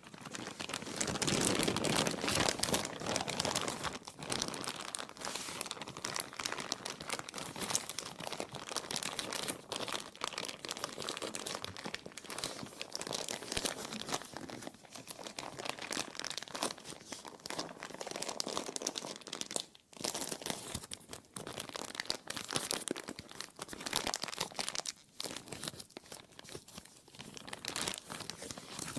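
Plastic being crumpled and crinkled continuously, a dense crackling with brief lulls about twenty and twenty-five seconds in.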